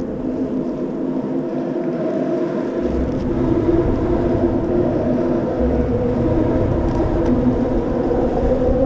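A boat engine running steadily with an even drone, with a low rumble swelling a few times underneath.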